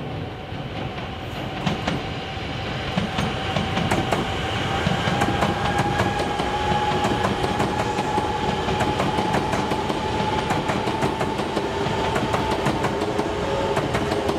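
E926 East-i Shinkansen inspection train running past at close range. Its wheels click over the rail joints, and the whine of its GTO-VVVF inverter-driven traction motors rises slowly in pitch. The noise grows over the first few seconds and then holds steady as the cars go by.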